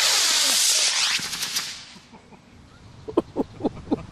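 Model rocket motor igniting at launch: a loud rushing hiss that fades over about two seconds as the rocket climbs away. About three seconds in comes a quick run of short sharp sounds, about four a second.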